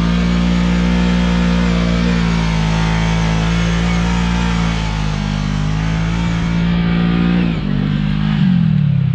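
Side-by-side UTV engine running at a steady, held speed, then its pitch shifts and falls away about eight seconds in.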